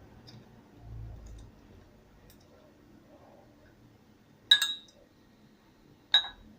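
Two sharp clicks about a second and a half apart, each with a brief ringing tone, like a hard object tapping a container, with a soft low thump about a second in.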